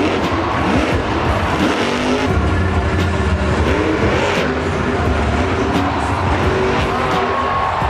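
Monster truck engines revving hard and repeatedly, their pitch swinging up and down over a heavy low rumble.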